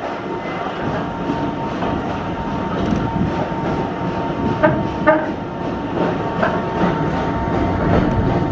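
British Railways Mk1 coach rolling along the track, a steady rumble with clickety-clack of the wheels that slowly grows louder. Three short high squeaks come around the middle.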